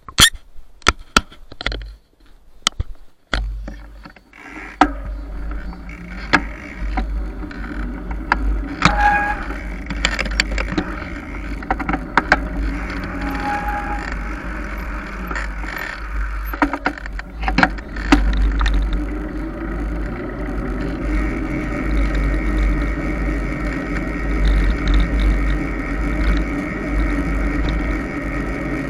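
Mountain bike being ridden along a rough dirt trail: wind rumbling on the camera microphone under steady tyre noise, with frequent knocks and rattles from the bike over the ground. A few sharp clicks sound in the first few seconds before the riding noise settles in.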